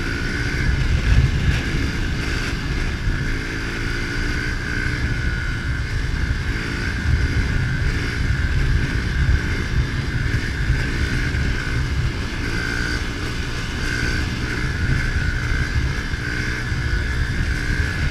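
A 110cc pitbike's engine running while being ridden, its pitch wavering a little with the throttle, with a steady rumble of wind on the microphone.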